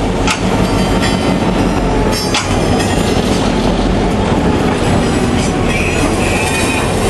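Arkansas Midland freight train led by locomotive 703 running on the track: steady locomotive and rail noise with a few sharp clicks and a brief thin wheel squeal about six seconds in.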